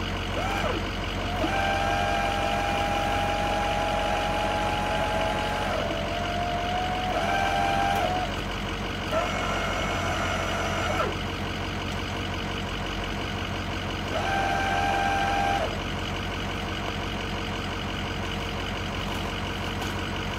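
Electric truck-camper jack motors whining in four runs of a few seconds each, the longest about four seconds near the start, as the camper is raised and lowered. A truck engine idles steadily underneath.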